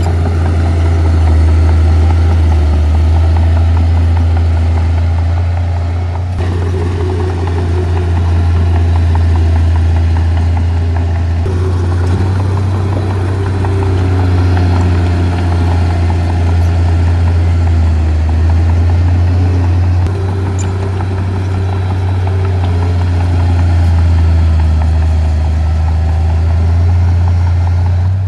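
Heavy earth-moving equipment's diesel engine running steadily with a deep, low drone. The sound shifts abruptly a few times, as between takes.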